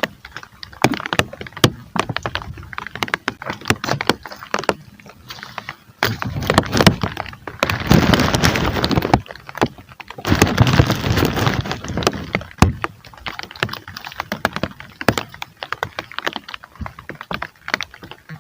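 Rain falling, with many irregular drops tapping on a surface close to the microphone, and two louder swells of rushing noise, the first about six seconds in and the second about ten seconds in.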